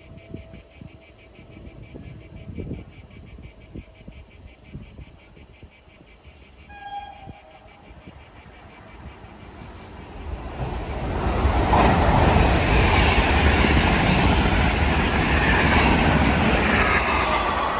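Train passing: a loud rush of rail and wheel noise that builds quickly about ten seconds in and stays loud. A short pitched tone, like a distant horn, sounds briefly about seven seconds in.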